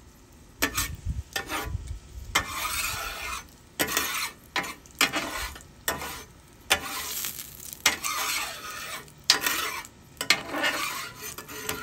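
Gyoza frying in oil on a steel flat-top griddle at medium heat, sizzling steadily while their bottoms brown. Repeated sharp scrapes and clicks cut through the sizzle, with a metal spatula working the griddle near the end.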